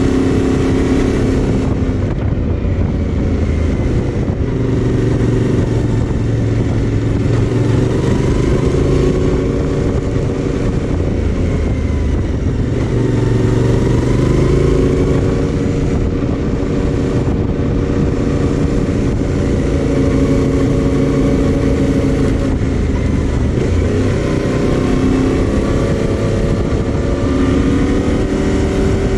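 Yamaha Ténéré 700's 689 cc parallel-twin engine running under way, its pitch rising and falling repeatedly with throttle and gear changes, over a steady rushing noise.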